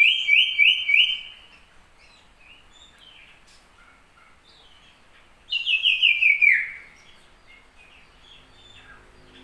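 Common iora (cipoh) singing: a quick run of repeated bright notes at the start, then after a pause of a few seconds a second run that slides down in pitch at its end.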